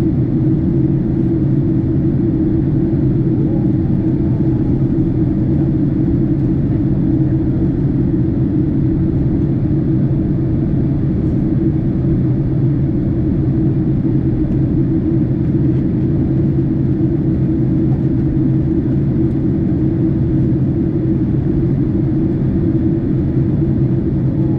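Steady in-flight cabin noise inside a Boeing 767 airliner: an even, loud drone of engine and airflow that holds unchanged throughout.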